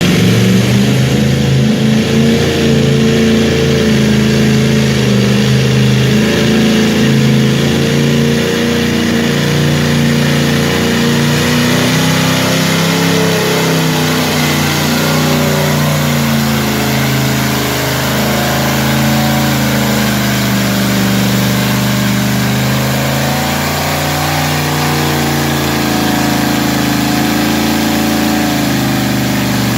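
Mud bog truck on tractor tires making its pass, its engine running hard at high revs that rise and fall the whole way.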